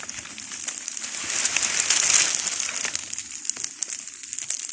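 Fire burning through dry palm leaves, crackling and hissing with dense sharp pops. It swells to its loudest about two seconds in, then eases a little.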